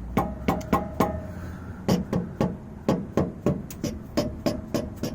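Repeated sharp metallic clanks from a loose part under a Chevrolet Trailblazer SS being set rattling, about two or three knocks a second with a short ring on the first few. This is the 'loose change' rattle the owner hears over bumps, which he traces to a part that is falling apart.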